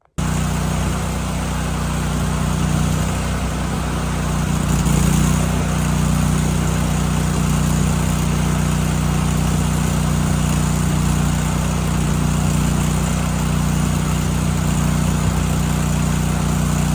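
Miller Bobcat 250 welder's gas engine running steadily under a welding load, with the steady hiss of a 6013 stick-electrode arc over it.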